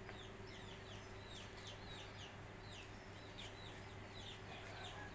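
Faint chirping of birds: many short, high, falling peeps, a few each second, over a steady low hum.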